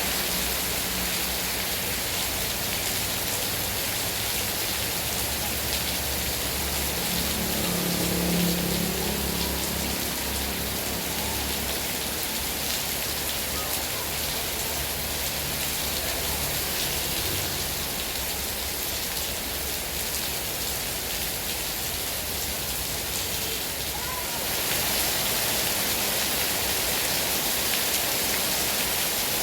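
Heavy rain falling steadily. There is a brief low rumbling sound about eight seconds in, and the rain grows a little louder after about twenty-four seconds.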